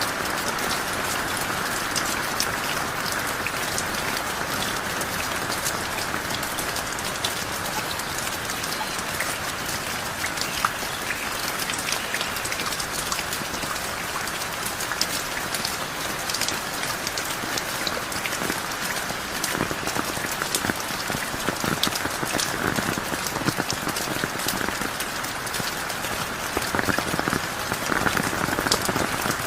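Heavy rain falling steadily, a dense patter of drops on surfaces, a little louder near the end.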